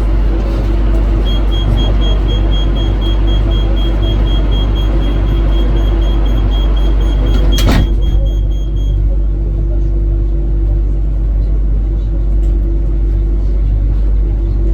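Ivolga electric train running, a steady low rumble and hum heard from on board. A rapid high-pitched pulsed beeping starts about a second in and stops about two thirds of the way through, with a sharp knock just before it ends.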